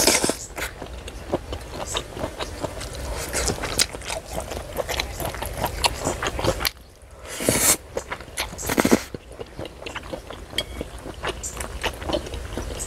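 Close-miked chewing and biting of chewy sea-snail pieces and noodles, with wooden chopsticks clicking and scraping on a ceramic plate as the last bits are picked up. Two brief, louder rushes of noise come about seven and nine seconds in.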